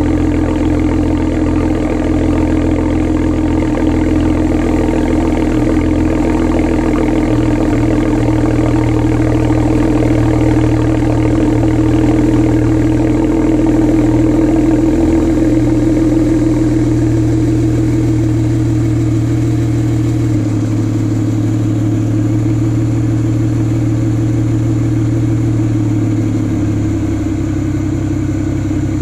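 Exhaust of a BMW 335i's N54 twin-turbo straight-six, fitted with 335is mufflers, idling steadily during cold-start warm-up. The low tone shifts slightly about twenty seconds in and again near the end as the idle settles.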